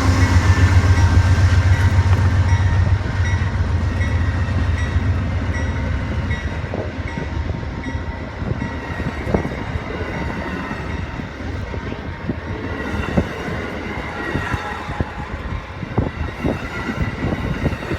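Train moving past on the tracks. The low rumble of the locomotive fades over the first few seconds, leaving irregular clicks and knocks of the wheels over the rail joints.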